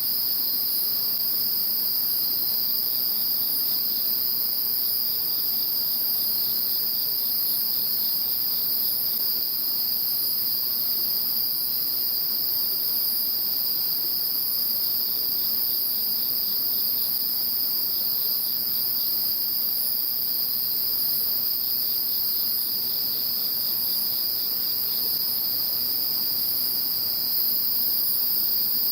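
Chorus of many insects calling at once: a continuous shrill trilling, high and steady, with a layer of rapid ticking trills that come and go every few seconds.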